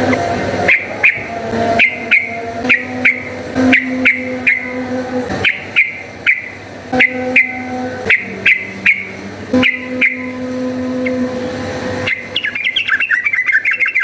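Yellow-vented bulbul (trucukan) calling: a short, sharp note repeated about twice a second, then a rapid chattering run of notes near the end.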